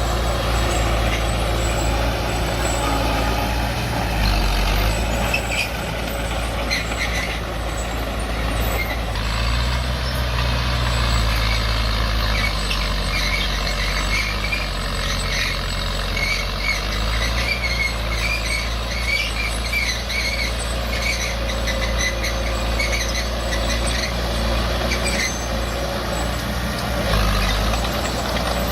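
Diesel earthmoving machinery running steadily under load, with a run of high-pitched squeaks in the middle.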